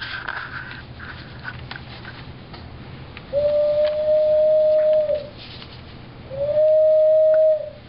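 A person making a bird-call noise: two long, steady whistled or hooted notes at the same pitch, the first about two seconds long and the second a little shorter, starting a few seconds in.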